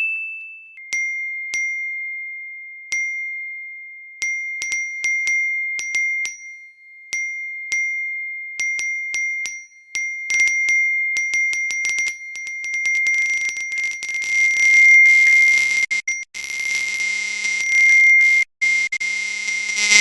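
A small bell struck again and again, its bright ring carrying on between strikes, irregular at first and then faster and denser. Over the second half a hiss and lower sounds join in.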